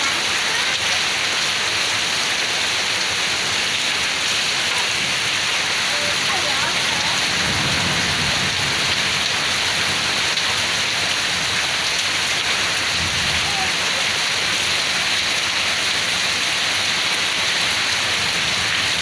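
Heavy downpour of rain and hail, a loud steady hiss, with low rumbles about eight and thirteen seconds in.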